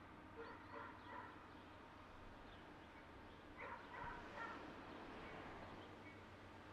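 Near silence: the faint low rumble of a distant approaching Union Pacific diesel freight train, with short animal calls in two clusters, one near the start and one around four seconds in.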